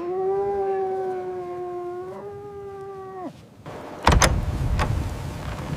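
An animal's long, steady call held on one pitch for about three seconds. About four seconds in, a loud noisy rush with sharp clicks starts suddenly.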